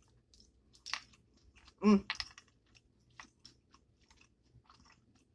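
Close-up chewing with crisp crunches and scattered short clicks, as a fresh jalapeño pepper is eaten. A brief hum about two seconds in.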